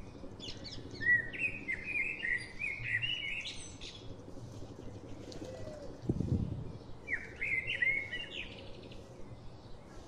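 Small birds chirping: two runs of quick, high, bending notes, the second a few seconds after the first. There is a brief low thud about six seconds in.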